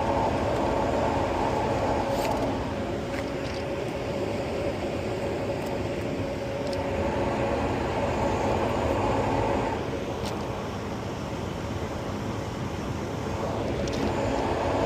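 Rooftop HVAC unit running with its blower drawing air: a steady mechanical drone with a constant hum, plus a few faint clicks.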